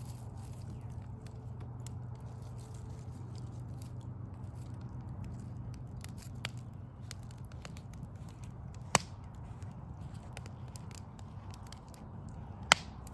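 Backyard wood fire of logs crackling, with sparse small crackles and two sharp, loud pops, one about two-thirds of the way in and one near the end. A steady low rumble runs underneath.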